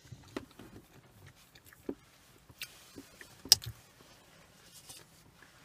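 Close-miked chewing and mouth sounds from people eating molasses buns, with scattered small smacks and clicks, the sharpest about three and a half seconds in.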